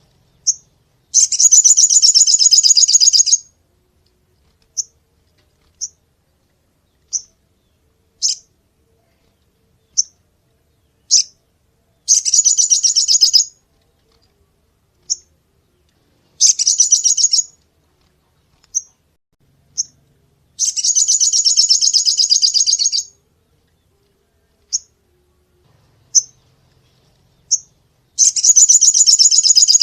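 A sogon songbird singing: sharp, high single chirps about once a second, broken five times by fast rattling trills that each last one to two and a half seconds.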